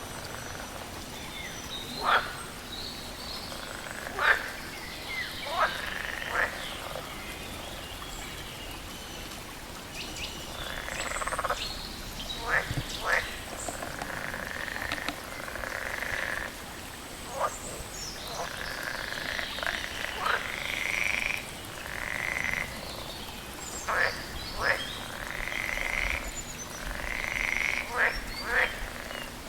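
Frogs croaking: short, sharp calls every couple of seconds, joined in the second half by longer, raspier calls, over a steady background hiss.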